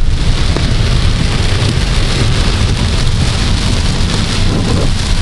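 Heavy rain pelting a moving car, heard from inside the cabin as a steady hiss over a constant low road rumble.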